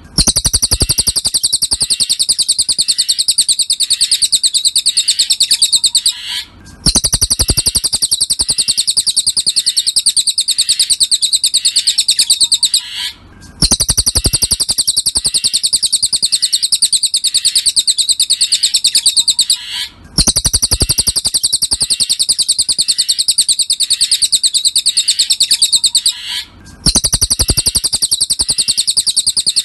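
Cililin bird song from a looped training recording: a fast, high-pitched continuous trill in phrases about six seconds long, each ending in a short rising note and followed by a brief pause, repeating four times.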